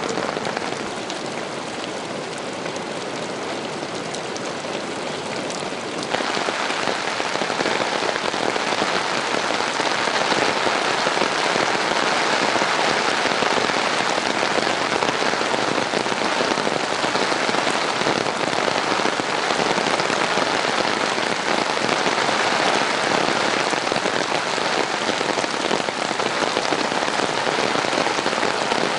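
Heavy rain pouring steadily, a dense hiss of falling drops that jumps abruptly louder about six seconds in.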